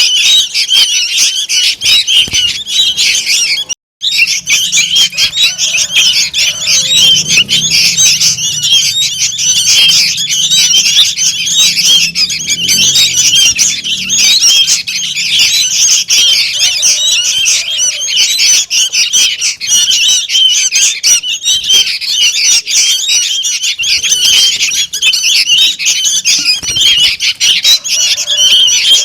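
Young sooty-headed bulbuls in a dense, unbroken chatter of calls, the noisy young-bird calling used as a lure to draw bulbuls in. It drops out for a moment just before four seconds in.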